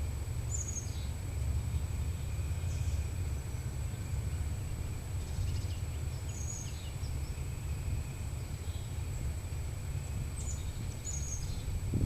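A songbird giving short, high chirps a few times, over a steady low outdoor rumble and a thin steady high whine.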